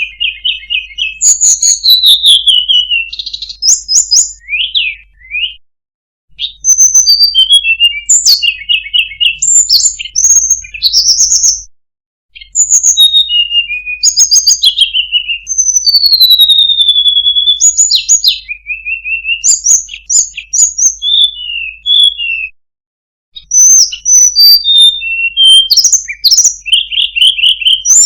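Tledekan gunung (Sunda blue robin) singing: loud, varied whistled phrases of sliding notes and quick trills, with brief pauses a few times.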